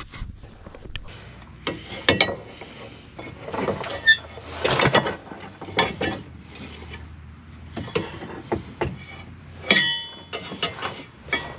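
Irregular metallic clunks and clinks as a new Scion FR-S axle shaft is handled and worked into place, with one ringing clink a little under ten seconds in.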